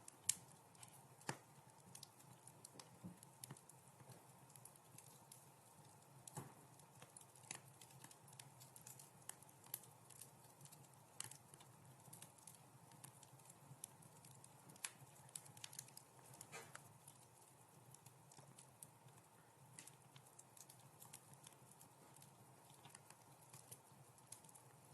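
Wood fire crackling in a fireplace: irregular sharp pops and snaps, the loudest just after the start, over a faint steady low hum.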